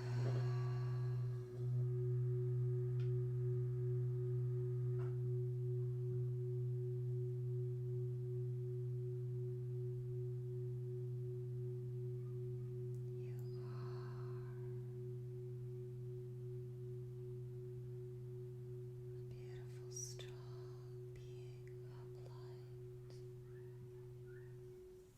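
A singing bowl ringing on as a low, pure, sustained hum with a fainter higher overtone, slowly fading, then stopped short near the end. Faint rustling of handling a few times.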